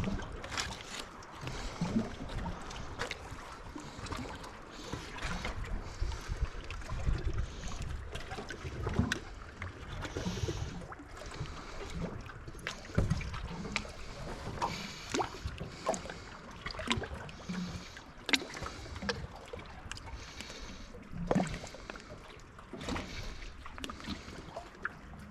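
Water lapping and gurgling against a kayak's hull, with scattered light knocks and clicks.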